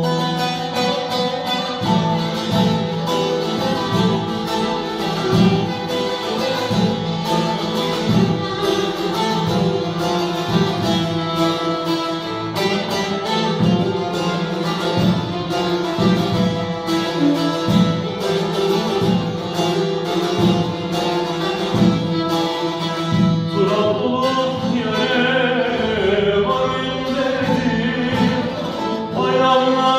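Turkish folk music: a plucked long-necked lute in the saz family playing a melody over a regular rhythmic pulse, with a voice singing along at times, most clearly near the end.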